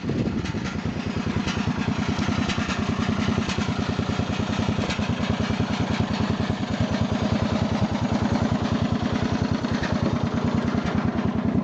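12-horsepower Briggs and Stratton petrol engine of a ride-on lawn tractor running steadily at tick-over, an even, rapid chugging with no change in speed.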